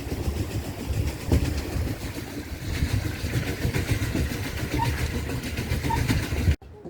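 Pedal boat moving fast over the lake water: a loud, low, rough rushing noise that cuts off abruptly near the end.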